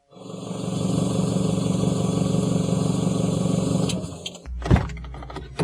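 Car engine running steadily, then cut off about four seconds in, followed by a thump near the end.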